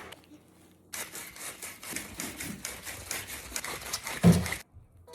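Rapid rustling and clicking of food packaging and containers being handled in a kitchen, with one heavy thud near the end before it cuts off suddenly.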